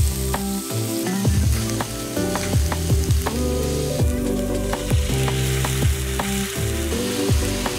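Minced onion, garlic, ginger and chilies sizzling in hot oil in a frying pan as a spatula stirs them; the sizzle turns brighter about four seconds in, when sake is poured into the pan. Background music with a steady beat plays throughout.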